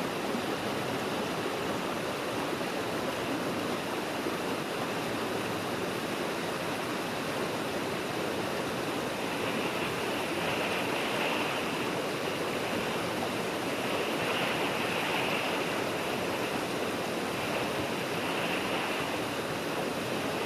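Svartifoss waterfall: a steady rush of falling water. In the second half a higher hiss swells and fades several times.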